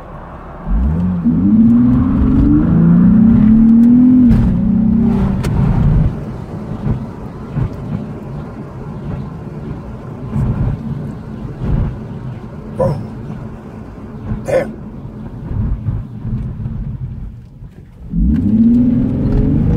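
Car engine accelerating, heard from inside the cabin: its pitch rises for several seconds, then eases off to a lower rumble with road noise, and it picks up and rises again near the end.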